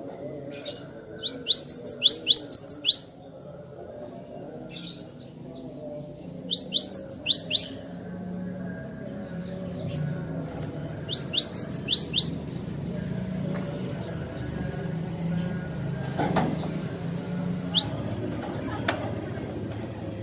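Cinereous tit (glatik batu) singing: three fast bursts of about seven sharp, rising high notes each, a few seconds apart, then a single note near the end, over a faint low background rumble.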